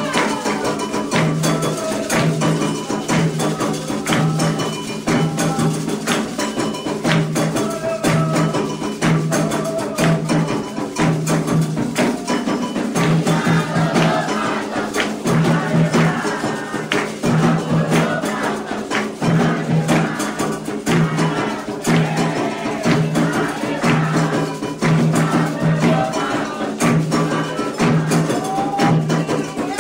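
Candomblé ketu ritual drumming: atabaque hand drums beat a steady repeating pattern under dense, sharp strikes from small percussion such as the agogô bell and shakers. Voices sing over it at moments.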